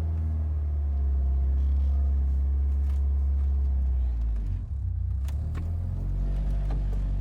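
Peugeot 205 GTI four-cylinder petrol engine running steadily, its note dipping and changing briefly about four and a half seconds in, with a few light clicks after.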